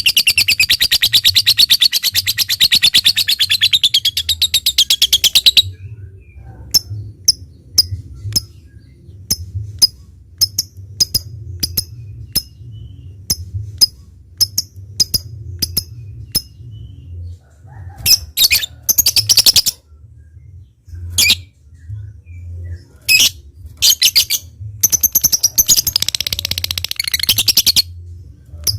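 Lovebird singing: a long, rapid, shrill chattering trill (ngekek), then a string of separate sharp clicking chirps at about two a second (ngetik), and near the end more short bursts of chatter and another long chattering run.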